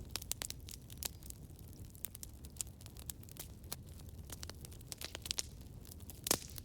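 Wood fire burning, with a steady low rumble and frequent sharp crackles and pops, one louder pop near the end.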